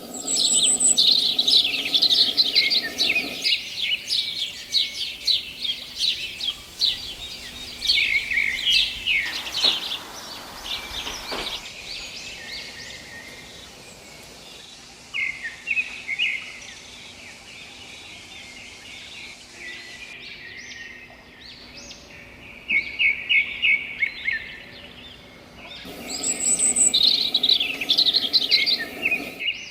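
Songbirds chirping and singing, in dense bursts of rapid, high chirps with a quieter, sparser stretch in the middle. A dense burst returns near the end.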